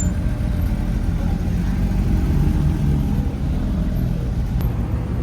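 A car engine running at a car meet, a steady low-pitched drone with no sharp changes.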